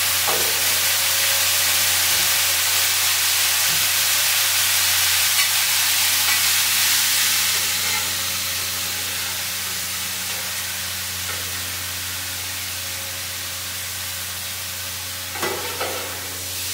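Steaks, onions and mushrooms sizzling on a hot Blackstone flat-top griddle, loudest for the first half and then settling to a steadier sizzle. A few metal spatula scrapes come on the griddle near the end.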